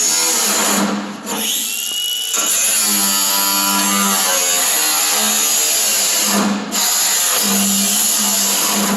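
A power tool running loudly on the sheet-metal bed floor, which is being cut to shape. It eases off briefly twice, about a second in and again past the middle.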